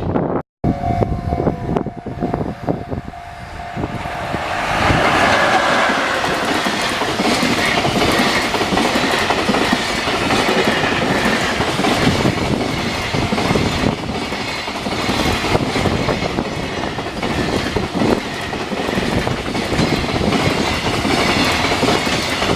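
A train passing close by at a level crossing, its wheels clattering rhythmically over the rail joints. The passage starts building about four seconds in and keeps up for the rest of the time. A steady single tone sounds in the first few seconds, before the train noise grows.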